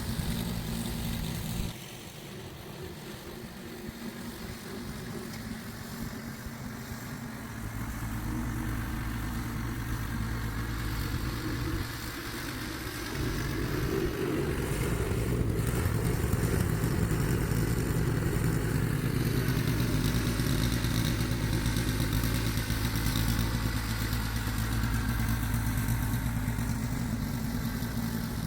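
Small gasoline engine running steadily. It drops off about two seconds in, then comes up in two steps, around eight and thirteen seconds, and stays louder.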